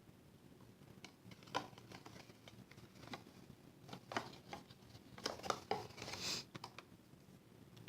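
Faint scattered clicks and taps of small cardstock pieces being handled and pressed onto a paper craft model, with a brief papery rustle a little past six seconds in.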